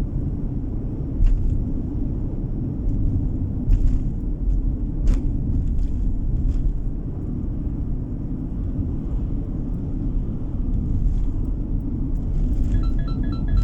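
Car driving at road speed, heard from inside the cabin: a steady low road and tyre rumble with a few light clicks and knocks. Chiming music begins near the end.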